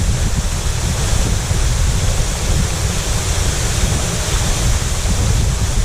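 Waterfall rushing steadily: an even hiss of falling water over a heavy, fluttering low rumble.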